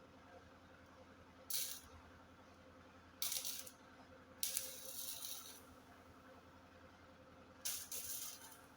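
Welding arc crackling in four short bursts, the first at about a second and a half and the longest near the middle, as in tack or stitch welding.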